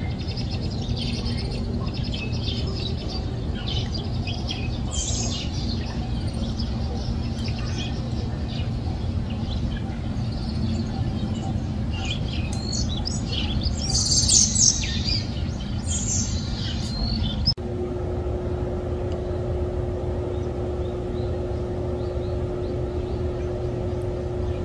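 Small birds chirping repeatedly over a steady low outdoor rumble, the chirps busiest a little past the middle. About 17 seconds in the chirping cuts off and a steady low hum with one held tone takes over.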